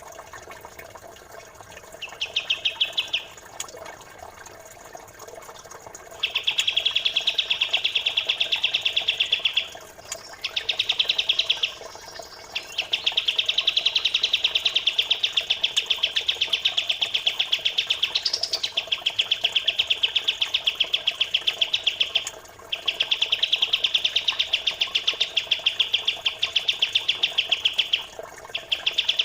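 Small songbird singing a rapid, machine-gun-like trill of evenly repeated high notes. After a short burst about two seconds in, it comes in long runs of several seconds with brief pauses, over trickling water.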